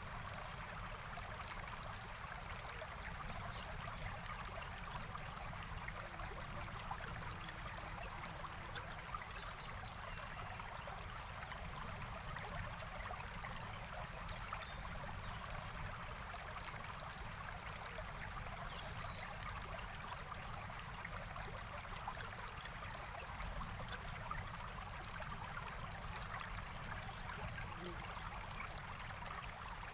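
Forest stream flowing steadily, a continuous rushing and trickling of water, with fine ticks scattered through it.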